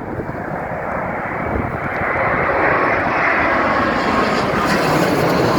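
Jet airliner passing close on its landing approach: a rushing engine roar that swells steadily louder, with a faint whining tone in it.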